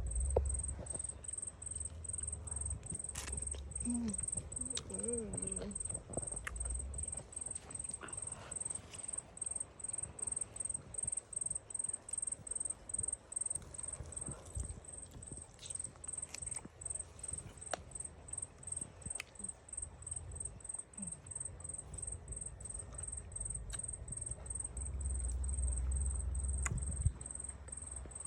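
Insect chirping in a steady, evenly pulsed high trill, with scattered faint clicks and taps underneath.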